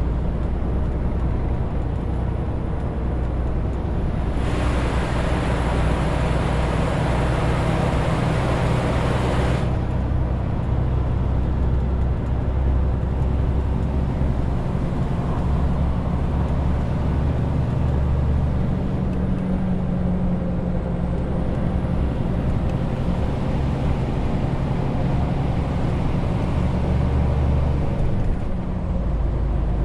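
Renault T520 truck's inline six-cylinder diesel running steadily while pulling a 40-tonne load, a continuous low hum. From about four to ten seconds in, a loud hiss rises over it and then stops abruptly.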